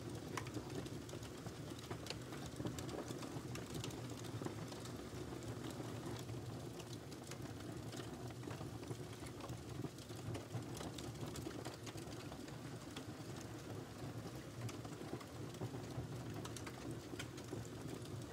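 Cats eating from their dishes: many small, irregular clicks and ticks of chewing and licking over a steady low hum.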